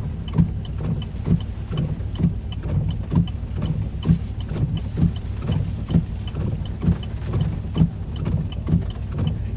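Windshield wipers sweeping at high speed inside a stopped car's cabin, one swipe a little under every second, over a steady low rumble. A light ticking runs about twice a second alongside.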